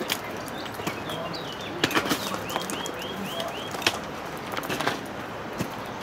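A small songbird chirping, with a run of five quick chirps about two and a half seconds in, over footsteps and trekking-pole tips clicking on a gravel path.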